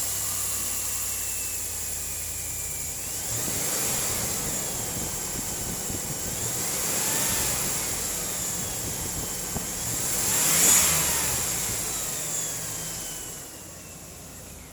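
2002 Chevrolet Tahoe's V8 engine running and revved three times, the third rev the highest, about ten seconds in. It then settles back to idle near the end.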